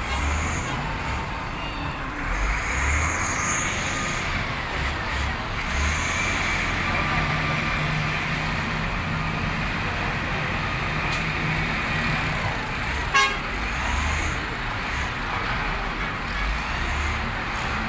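Diesel engine of a ten-wheel HOWO dump truck running steadily under way, with rumbling road and cab noise. A single sharp knock about thirteen seconds in.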